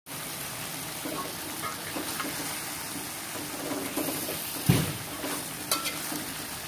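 Chicken feet in thick chilli sauce sizzling in a metal wok while a metal spatula stirs them, scraping and clacking against the pan. The loudest hit is a knock a little before five seconds in.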